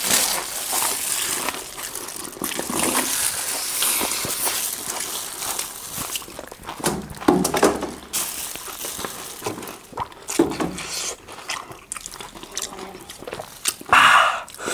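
Close-miked eating sounds: wet chewing and slurping of food, with small mouth clicks and a few short grunts or hums, and a louder burst of sound near the end.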